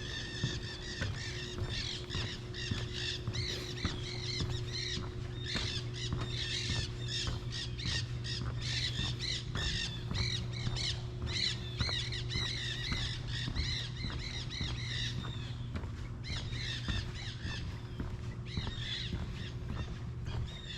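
Many birds calling at once, with dense, overlapping, rapidly repeated calls that thin out about three quarters of the way through. A steady low hum runs underneath.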